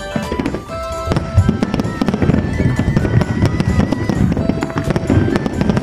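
Aerial fireworks going off in a dense, continuous run of crackling and banging bursts over a low rumble.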